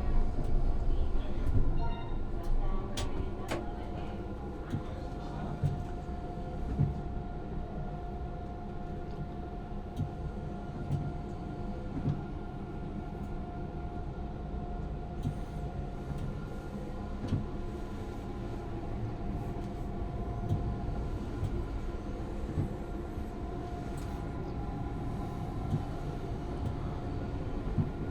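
Electric tram running along its track, heard from the driver's cab: a steady low rumble with a steady motor whine and scattered short clicks from the wheels and rail joints.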